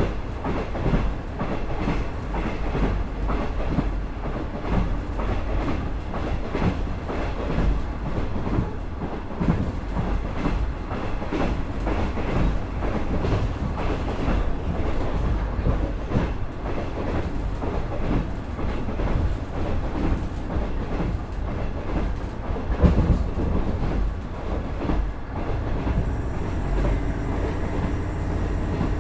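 KiHa 110 series diesel railcar under way: a steady running rumble with wheels clattering over the rail joints and one louder knock about 23 seconds in. Steady tones join the rumble near the end.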